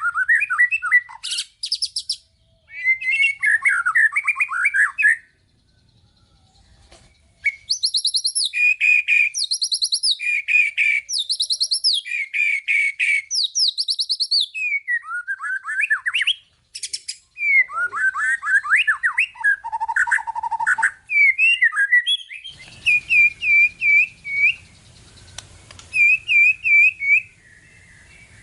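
White-rumped shama (murai batu) singing a varied, mimicry-filled song of rapid chirp series, whistled sweeps and trills, broken by short pauses. About 22 seconds in, a low hum appears behind a short chirping phrase repeated several times.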